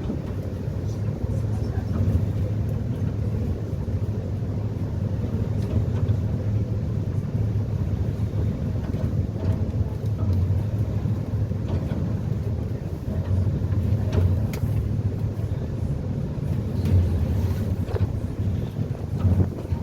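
Passenger catamaran ferry under way: its engines run with a steady low drone and a constant rush of noise over it.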